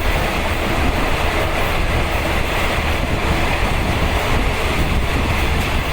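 Steady rumble and rattle of a moving train, heard from inside a third-class passenger coach.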